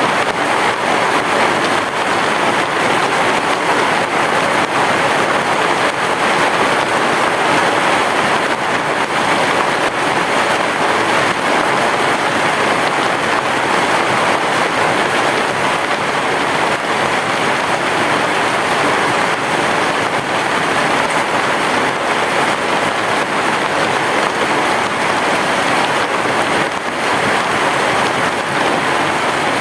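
Heavy rain falling steadily, a dense, even hiss of rain on a surface with no distinct thunder claps.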